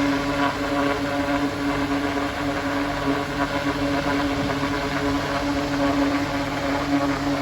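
Mobile mist fan humidifier running steadily: a constant motor hum with a strong low tone over a rush of blown air.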